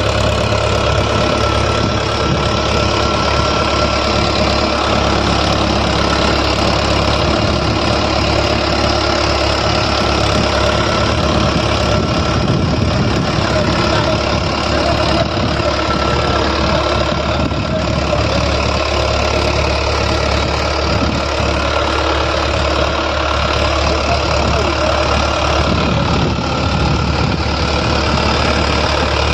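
Tractor engine running steadily, a deep, even drone.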